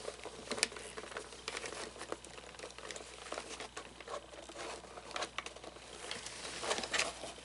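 Handling noise while working on an animatronic figure: scattered small clicks and crinkles of hands moving plastic parts and costume.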